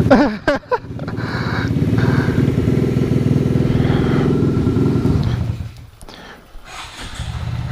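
Two-stroke motorcycle engine idling steadily, dropping away about five and a half seconds in and coming back faintly near the end. It keeps idling even when the rider tries to stall it, which is unusual for a two-stroke.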